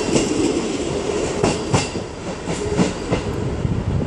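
Diesel multiple-unit passenger train moving away along the platform. Its wheels click over rail joints above a steady rumble, which fades slightly as the last carriage draws off.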